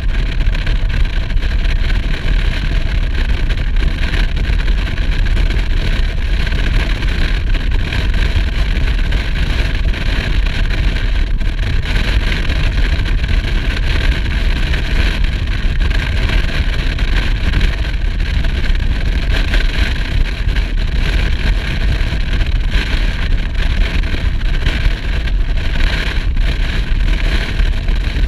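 Motorcycle riding at a steady speed: the engine running under a loud, even rush of road and wind noise with a deep rumble.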